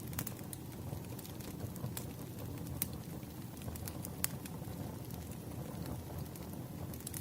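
Firewood burning and crackling: a steady low rumble of flames with occasional sharp pops.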